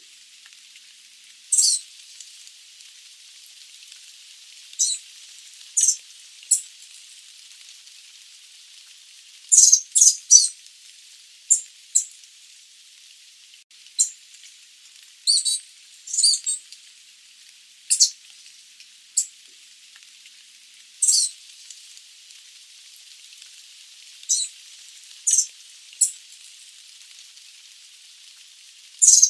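Sooty babbler (Stachyris herberti) giving short, sharp, high-pitched calls at irregular intervals, sometimes two or three in quick succession, over a faint steady hiss.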